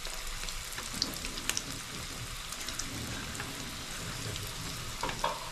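Flour-coated chhana (paneer) koftas deep-frying in a mix of oil and ghee in a steel kadai. It is a steady sizzle with scattered pops and crackles, which grow louder near the end.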